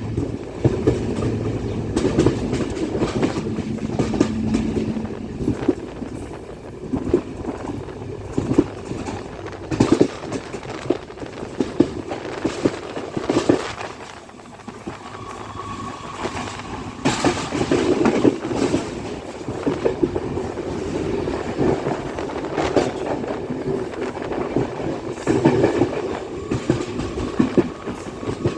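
Passenger train running along the track: a steady rumble with wheels clattering irregularly over rail joints.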